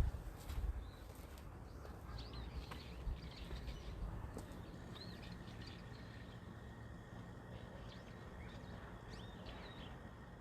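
Small birds chirping on and off, in short high calls scattered through, over a steady low background hum.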